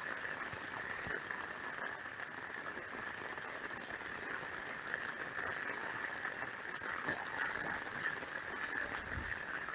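Heavy rain falling steadily, with runoff water flowing and a few faint drip ticks.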